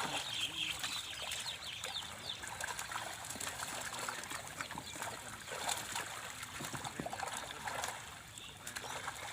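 Water trickling and splashing, with scattered small splashes.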